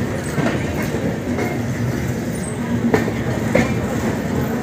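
Passenger train coach rolling slowly along a station platform, heard from the coach doorway: a steady rumble of wheels on rail with a few sharp clicks, about three seconds in and again half a second later, as the wheels pass over rail joints.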